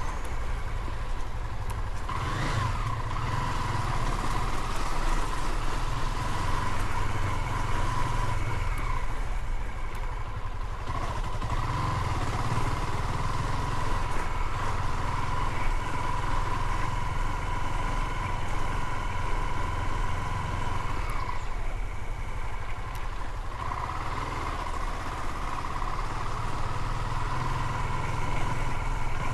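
Motorcycle running on the road, heard from the bike: a continuous low rumble under a steady high whine that dips in pitch and comes back a few times.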